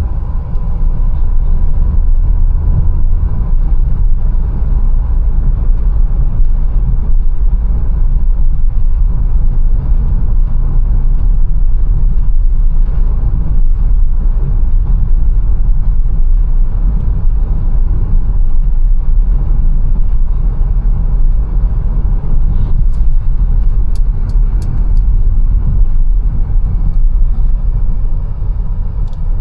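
Mercedes-Benz A180 being driven, a steady low rumble of engine and tyre noise. A few short clicks come near the end.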